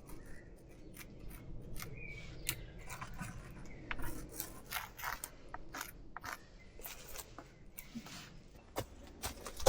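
Irregular scraping and crackling: a string of short scrapes and clicks, unevenly spaced, over a low steady rumble.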